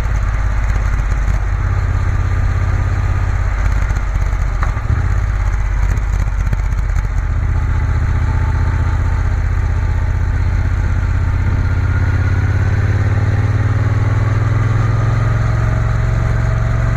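Triumph Bonneville T120's parallel-twin engine running under way, heard from the rider's position. In the second half the engine note holds steadier and slowly rises in pitch as the bike picks up speed.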